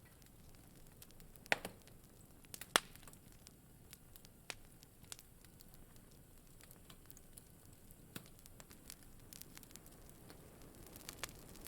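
Wood fire in a fireplace crackling, with scattered irregular pops over a faint steady hiss; two louder pops come about one and a half and nearly three seconds in.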